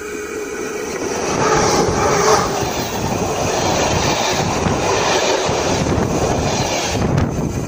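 Siemens Smartron electric locomotive and its train rolling directly over the rails above, a dense rumble of wheels on track that swells as the locomotive passes overhead about a second and a half in and stays loud as the cars follow, with sharp wheel clacks near the end.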